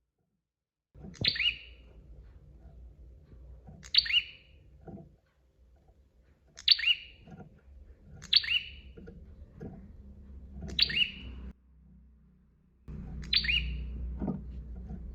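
Prenjak (prinia) calling: six short, sharp chirps, one every two to three seconds, with a faint low background noise between them.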